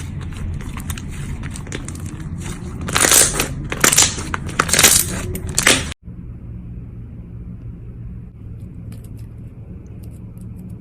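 Crackling, crunchy sounds of slime being pressed and squeezed by hand, with louder crunches about three to five seconds in. About six seconds in it cuts abruptly to a steady low hum with a few faint clicks.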